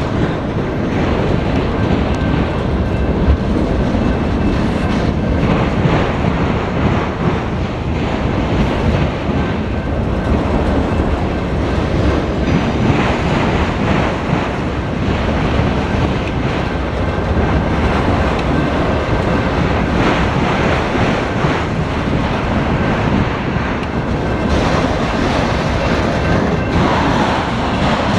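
Freight train of CSX autorack cars rolling past: a steady, loud noise of steel wheels running on the rails, with clicking as the wheels pass over rail joints.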